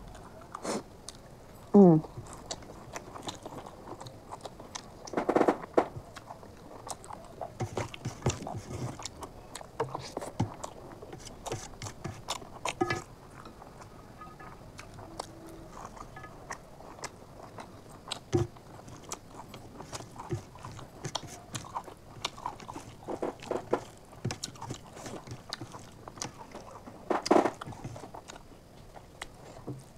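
Chewing and mouth sounds of a person eating chicken curry with rice and fresh coriander by hand: many short wet clicks and crunches, with a few louder smacks about five seconds in and near the end.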